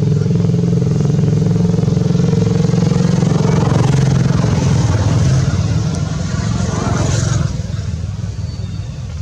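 A motor vehicle engine running close by: a steady, loud low hum that fades away after about seven and a half seconds.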